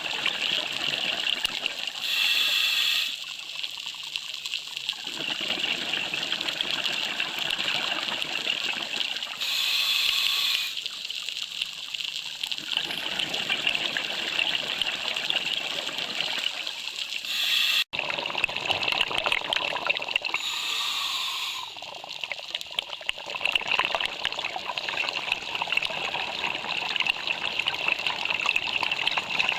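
Underwater ambience: a steady hiss full of fine crackling, with a louder rushing surge every several seconds.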